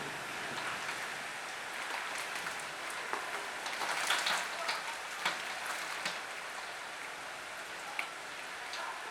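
Heavy rain falling steadily, with scattered sharp drops hitting a surface, several of them in the middle and one more near the end.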